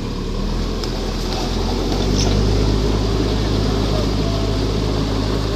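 Heavy earthmoving machine's engine running steadily, growing louder about two seconds in as it comes under load.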